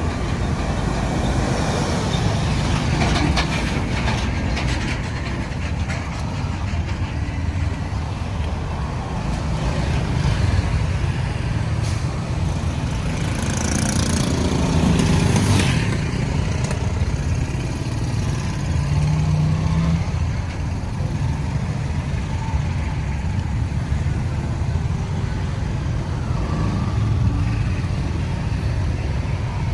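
Road traffic: a steady mix of vehicle engines and tyre noise, with one louder passing vehicle with a brief hiss about halfway through.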